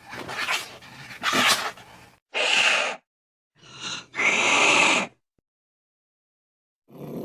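A pet animal's short, noisy calls: several separate bursts, each under a second long, with sudden stops and silent gaps between them.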